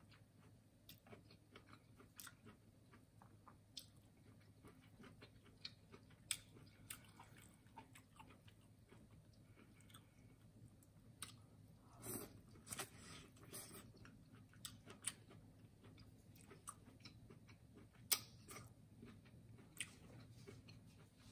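Close-up mouth sounds of eating spicy seafood boil with the hands: quiet chewing and wet smacking, broken by many short, sharp clicks. The clicks come in louder clusters about six seconds in, around twelve to fourteen seconds, and at eighteen seconds.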